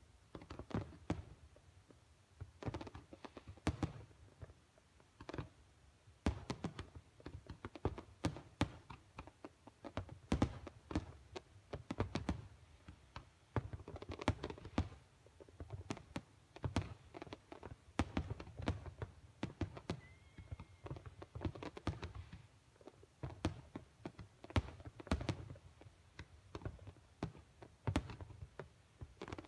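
Fireworks going off in a rapid, irregular string of thuds and bangs, several a second.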